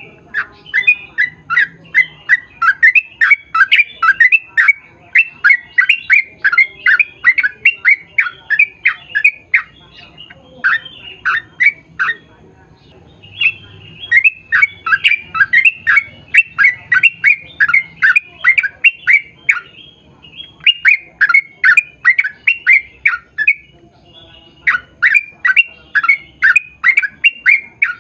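Yellow-vented bulbul (trucukan) singing its long rapid chattering song: runs of quick notes, each dropping in pitch, about four to five a second, broken by short pauses.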